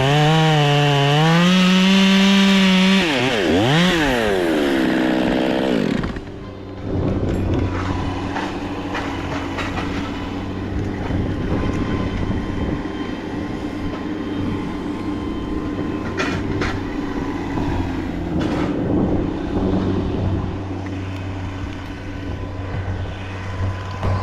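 Chainsaw engine running at high revs for about three seconds, its pitch wavering. It revs down and back up twice, then drops at about six seconds to a quieter, steady low run.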